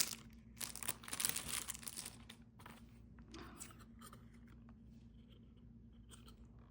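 Plastic album wrapping crinkling and tearing as a CD album is unwrapped by hand, busiest in the first two seconds, then fainter scattered crackles.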